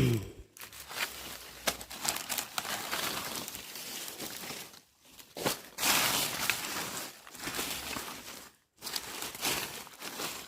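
Dry leaf litter and broken sticks crackling and rustling as they are scraped aside, in irregular bursts with sharp snaps and two brief pauses.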